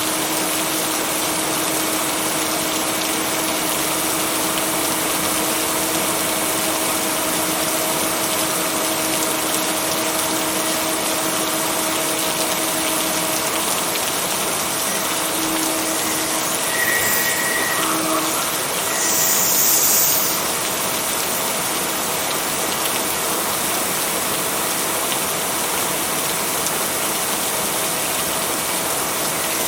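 Steady heavy rain, an even hiss, with a faint steady hum underneath. A little past the middle come a brief high tone and a short louder burst of hiss.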